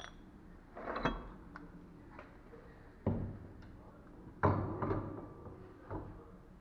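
Metal parts and tools clanking and knocking as they are handled in a workshop: four or five separate knocks with a short ring, the loudest a little past the middle.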